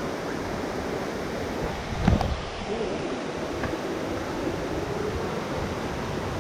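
Steady rushing of water from a jungle river and its falls, with a dull thump about two seconds in.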